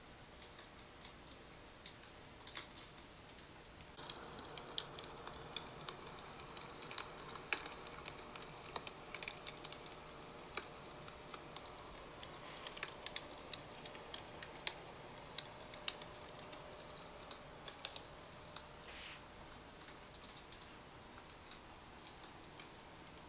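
Light, irregular clicks and taps of small objects being handled. A steady faint hiss starts abruptly about four seconds in and continues under them.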